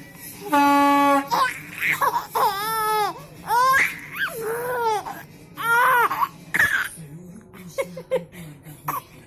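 A trumpet blows one short steady note, then a baby answers with a run of loud, high squeals that rise and fall in pitch. Quieter murmurs and clicks follow near the end.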